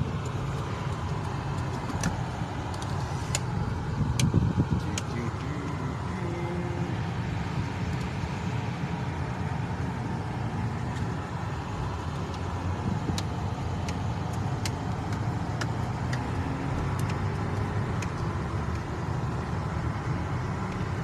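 Steady engine and road noise of a car being driven, heard from inside the cabin, with a few faint clicks now and then.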